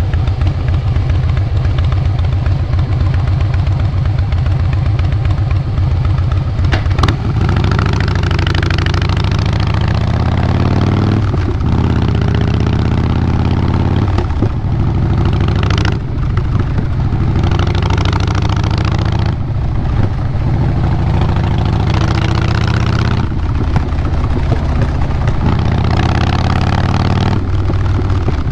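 Harley-Davidson Fat Boy Lo's Twin Cam 96B V-twin running through Vance & Hines Big Radius 2-into-2 exhaust pipes, with its fast low pulsing beat. Several times the sound dips briefly and its note changes, as the throttle is eased and picked up again.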